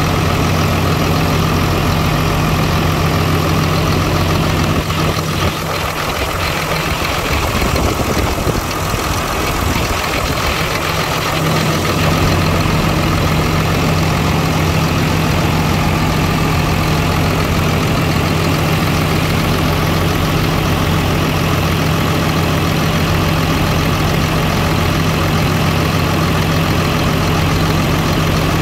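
Caterpillar C7 inline-six diesel of a 2004 Freightliner M2 box truck idling with a steady low hum. The hum is broken up by rougher noise for several seconds starting about five seconds in, then settles again.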